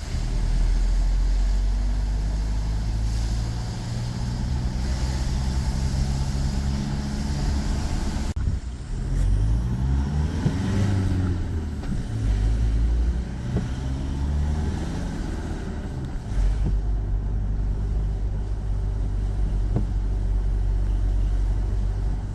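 Motor vehicle engine running with steady road noise. Around the middle its pitch rises and falls several times, as when revving up through the gears.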